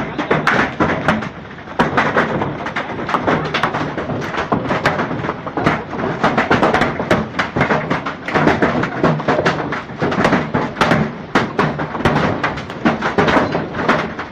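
Hailstones striking a hard surface: a dense, irregular clatter of many sharp impacts, without a break.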